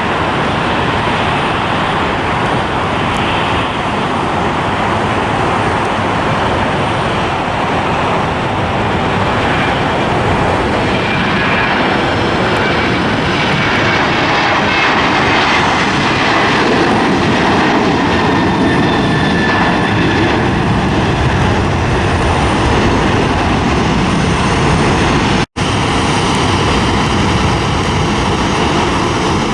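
Airliner engines running loud and steady as a plane passes close by, with a faint whine that falls in pitch midway. The sound cuts out for an instant near the end.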